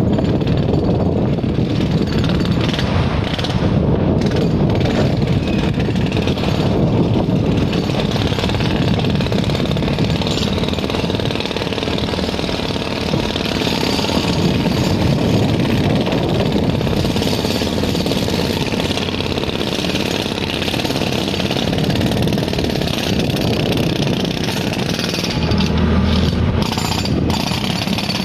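Passenger train rolling across a steel girder rail bridge: a continuous loud rattling rumble of wheels and carriages on the spans, mixed with wind on the microphone.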